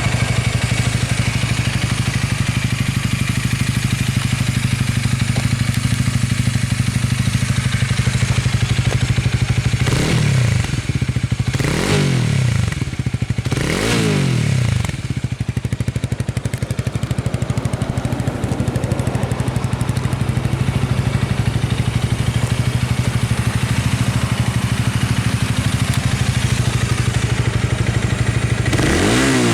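Honda Rebel 250's single-cylinder engine running through a Moriwaki aftermarket exhaust: a steady idle, three quick throttle blips about ten seconds in, each rising and falling back, then idling again, with another rev beginning right at the end.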